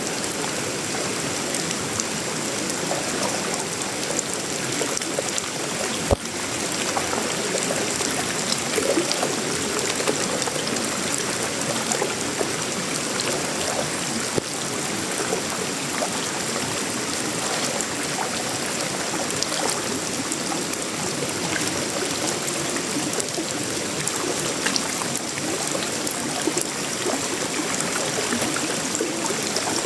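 Steady tropical rain falling on sheet metal, wood and leaves, with one sharp click about six seconds in.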